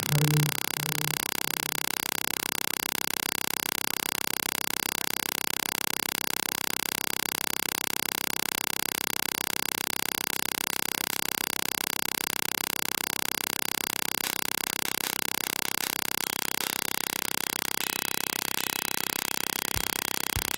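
Steady electrical hiss with a buzz of even tones, like an amplifier or recorder left running. A short pitched note fades out in the first second.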